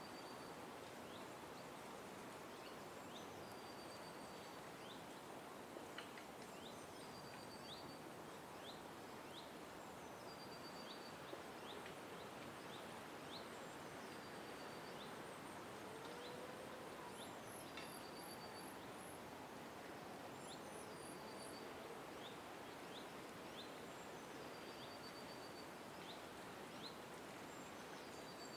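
A small bird repeating a short, high trilled call every two seconds or so over a steady outdoor background hiss.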